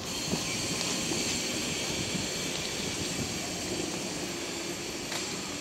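Rail-laden Chiki flatcars of a works train rolling slowly by. A low rumble of wheels runs under a steady high hiss.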